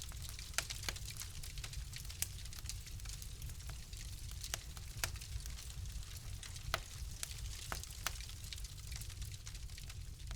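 Wood fire in a fireplace crackling: irregular sharp pops and snaps, several a second at times, over a steady hiss and low rumble.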